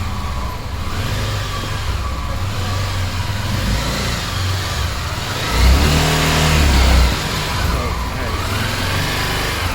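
Motorcycle engine running, with a burst of revs lasting about a second and a half a little past the middle as the bike is brought inside.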